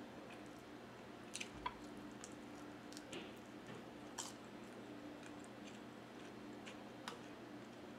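Faint chewing of air-fried small fish, with a scattering of sharp wet mouth clicks and smacks over a steady low hum.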